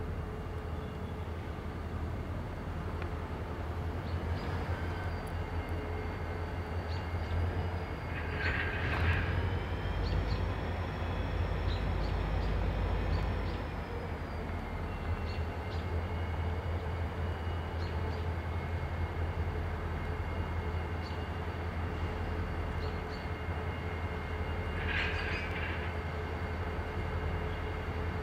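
Norfolk Southern diesel locomotives hauling an intermodal train past at slow speed: a steady low engine drone runs throughout. Over it are high, thin steel-wheel squeals that drift in pitch, with two sharper squeals, about nine seconds in and again near the end.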